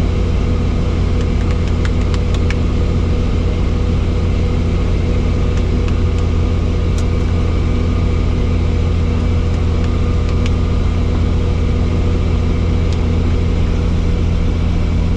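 Helicopter running with a steady loud drone, a strong low rumble with a stack of steady hums above it, unchanging throughout.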